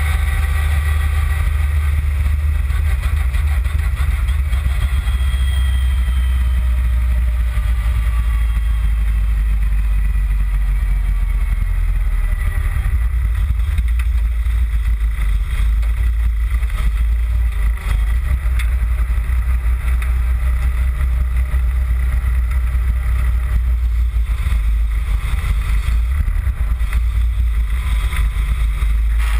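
Toyota Celica GT-Four ST185's turbocharged four-cylinder engine, heard from a bumper-mounted camera under a heavy low rumble of wind and road noise on the microphone. Its note falls over the first several seconds as the car slows after its run, then it runs steadily at low speed.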